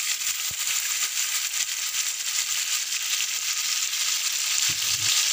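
Raw boneless chicken pieces sizzling steadily in hot oil in a frying pan, just after being added. There are a few light knocks and a dull thump near the end.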